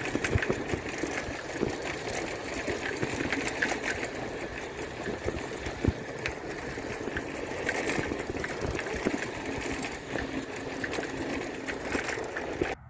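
Bicycle being ridden: a steady, dense rattling with many small clicks and knocks from the bike and road, which cuts off suddenly near the end.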